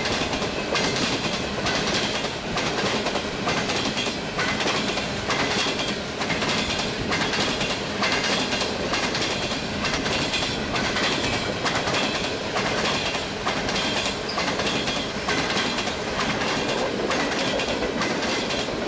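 Freight train of tank cars rolling past, its steel wheels clicking over rail joints in a steady, rhythmic clickety-clack over a constant rolling rumble.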